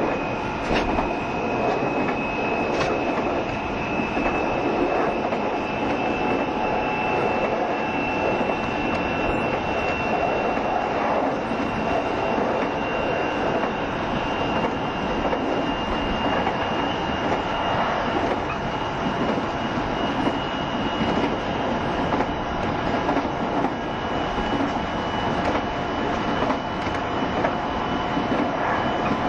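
JR Shikoku 7200 series electric train running along the line: a continuous rumble of wheels on rail with occasional sharp rail clicks. Over it a high thin whine rises slowly in pitch as the train gathers speed.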